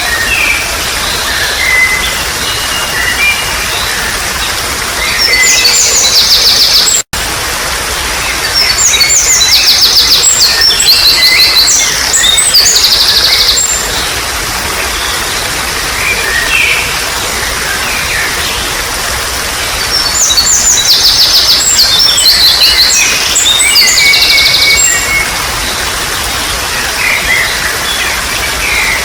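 Trickling water making a steady hiss, with wild songbirds singing over it in bursts of rapid, high trills and chirps, strongest at about six to thirteen seconds in and again at about twenty to twenty-five seconds. The sound cuts out for an instant about seven seconds in.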